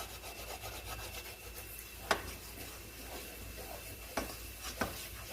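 A utensil stirring and scraping a flour-and-butter roux cooking in a pan, with three sharp knocks against the pan, about two seconds in and twice near the end.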